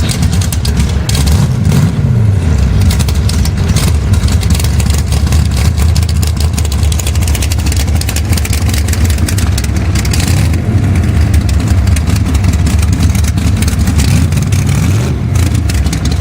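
Drag car engine running at a loud, choppy idle, with a short rev about two seconds in and another near the end.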